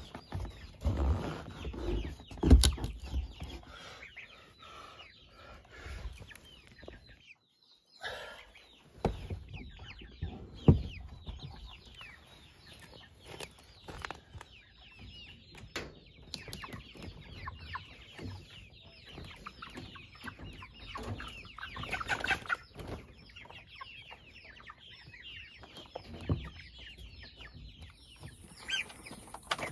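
A flock of meat chickens clucking and cheeping steadily, with a few sharp knocks, the loudest about a third of the way in.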